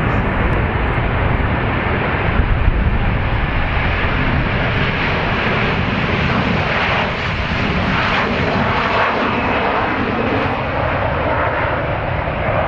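Airliner engines: a loud, steady rush of engine noise from a passing aircraft, swelling slightly midway.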